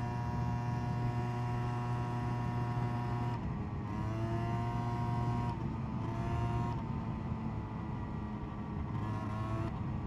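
SYM Jet2 50 scooter's two-stroke 50 cc engine running while riding, mostly steady, with its pitch dipping briefly and coming back up several times.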